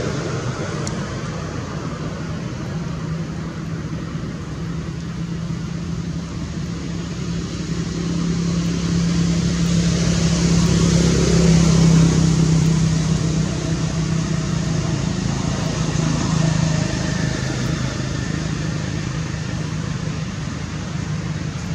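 A motor vehicle's engine passing by, growing louder to about twelve seconds in and then slowly fading, over a steady background hum.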